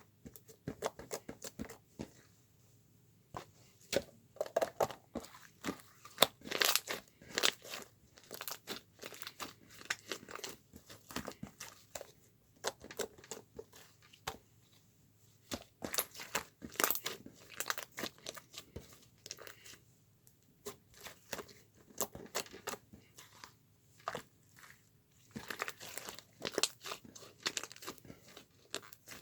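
Close-up crinkling, rustling and small clicks from something being handled, in irregular clusters with short pauses between them.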